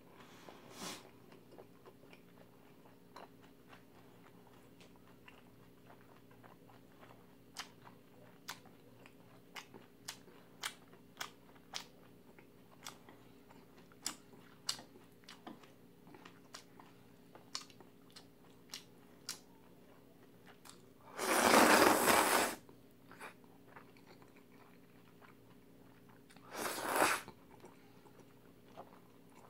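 Close-up chewing of food, with many sharp crunching clicks over a faint steady hum. Two loud rushing bursts of about a second each come about two-thirds of the way through and again a few seconds later.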